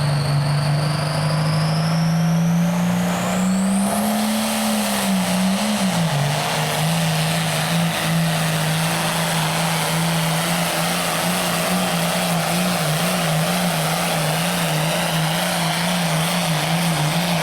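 Turbocharged diesel engine of an International Harvester hot farm pulling tractor running hard on a pull: a high whistle climbs steeply over the first four seconds as the engine note rises. The engine then holds a steady note that wavers up and down in the second half.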